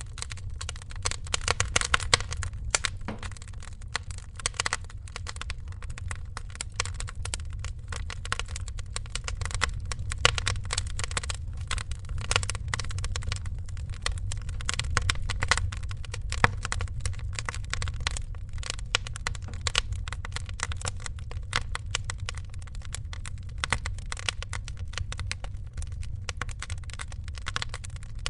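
Wood fire crackling, with dense, irregular small snaps and pops over a steady low rumble.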